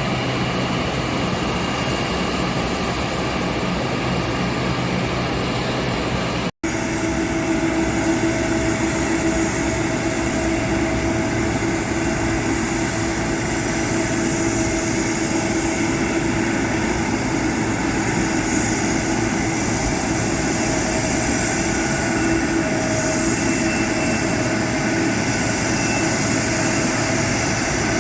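Jet airliner engines running steadily, a loud rush of noise with a held whine. There is a sudden cut about six and a half seconds in, after which the whine is stronger.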